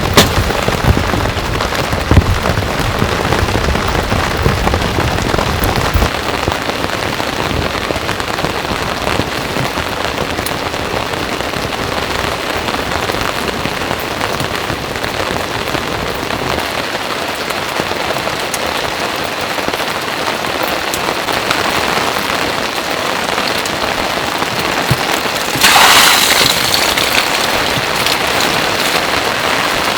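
Heavy rain falling steadily, an even hiss with scattered drops. A few low knocks in the first seconds, and a louder hiss swells for about a second near the end.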